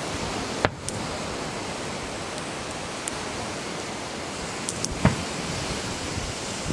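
Fireworks display: two sharp firework bangs about four seconds apart, the second preceded by a few faint crackles, over a steady rushing noise of wind on the microphone.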